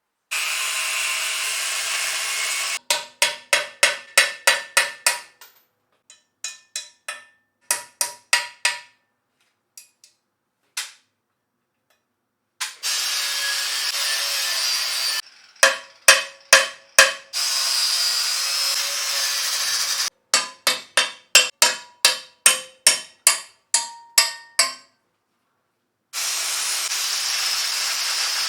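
Metal cutting on an engine backplate: a steady hissing power tool runs in four stretches of a few seconds, each starting and stopping abruptly. Between the stretches come runs of sharp, ringing strikes, about three a second.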